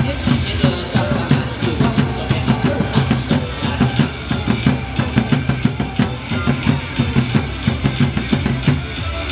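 Drums pounding a fast, steady cheer beat, about four to five strikes a second, with snare and cymbal hits, backing a baseball team's cheer song.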